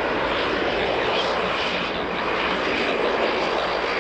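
Jet airliner engines running, a steady, even engine noise with no change in level.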